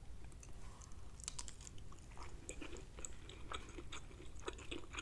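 A person chewing a mouthful of steamed cabbage with her mouth closed: faint, irregular clicks from the mouth.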